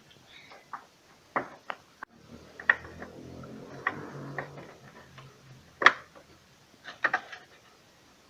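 Sharp plastic clicks and knocks of electrical wire connectors being pushed together and handled inside a refrigerator, about eight irregular ones, the loudest about two-thirds of the way through. A faint low hum sits under them for a couple of seconds in the middle.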